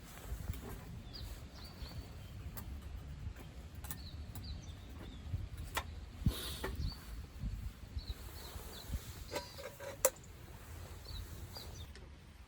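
Small birds chirping with short, repeated high notes over a low outdoor rumble, with a few sharp clicks or knocks, the clearest about six seconds in and again near ten seconds.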